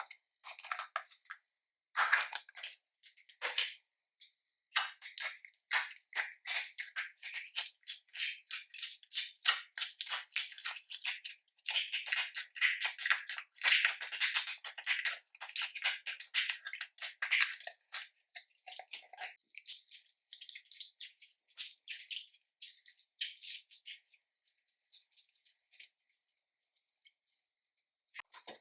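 Slime being kneaded and mixed by hand: a dense, irregular run of small sticky clicks and crackles, growing sparser over the last few seconds.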